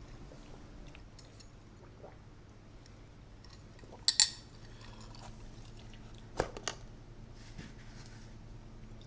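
Quiet eating sounds close to the microphone, with a sharp, ringing clink about four seconds in and two softer knocks a couple of seconds later.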